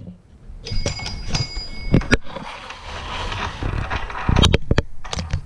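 Small bell on a Fisher-Price Little People toy barn rung, ringing clearly for about a second and a half, followed by a rustle and several sharp plastic knocks and clicks as the toy is handled.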